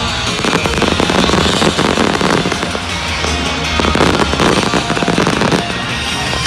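Fireworks exploding in rapid succession over loud show music.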